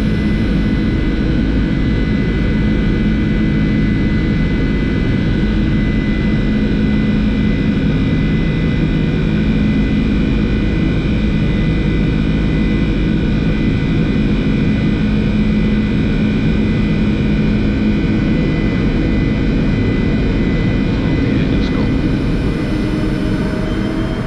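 Steady flight-deck noise of a Boeing 747-400 climbing after takeoff: a constant rush of airflow and jet engine sound with a few steady hum tones underneath. Near the end a faint rising tone comes in.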